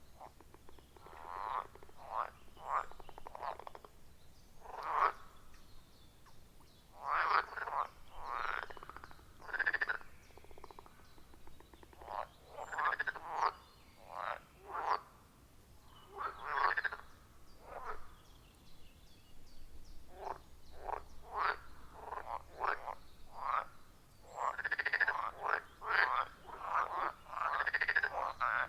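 A chorus of pond frogs croaking: short, separate calls coming irregularly, several frogs often calling over one another in quick clusters.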